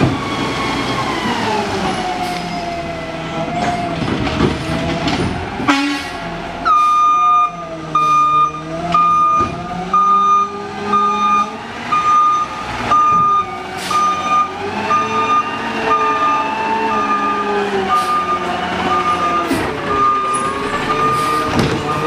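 Garbage truck engine running with its pitch rising and falling, a sharp clunk about six seconds in, then the truck's reverse alarm beeping about once a second.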